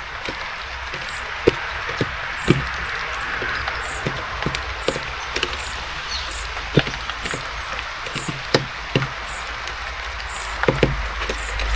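Small birds pecking and tapping at seeds on a feeder, with irregular sharp taps. A very high, thin call note repeats over and over, over a steady hiss of rain.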